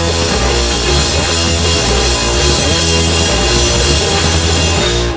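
Live rock band playing loud, full-band music with drums, bass and distorted guitar, ending abruptly on a final cut-off near the end.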